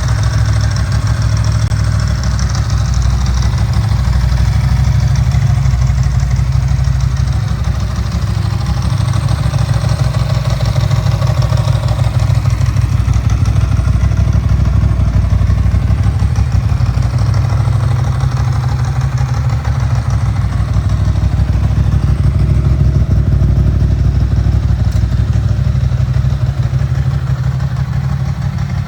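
2002 Ducati Monster S4's 916 cc liquid-cooled V-twin idling steadily, deep and even, without revving.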